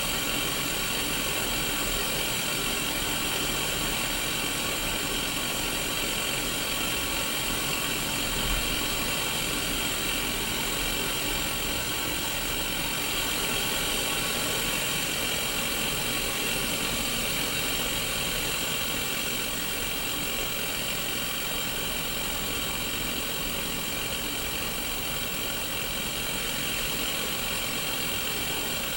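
Steady white-noise static from a Sony Mega Watchman black-and-white mini CRT TV with no station tuned in. It is an even hiss, strongest in the upper middle, with faint steady tones running under it.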